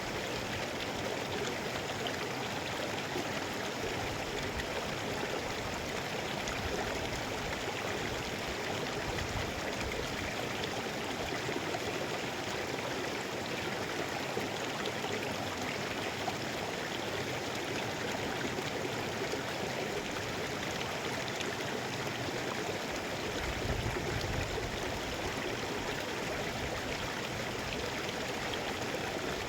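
Mountain river flowing, a steady, even wash of water, with a brief low rumble about three-quarters of the way through.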